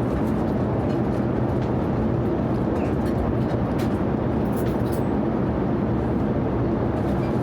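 Steady in-flight cabin noise of a Boeing 787-9: an even rumble of engine and airflow with no rise or fall, and a few faint light clicks over it.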